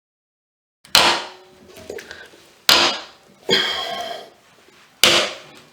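Three sharp cracks or knocks from a removal tool forced against a stuck plastic faucet retaining nut, with a scraping sound between the second and third. The brittle plastic is tearing and breaking rather than turning.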